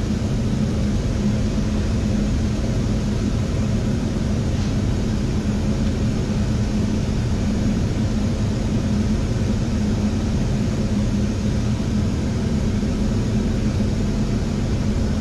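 Steady flight-deck noise of a Boeing 737-800 on short final: an even rush of air and engine noise with a constant low hum, unchanging throughout.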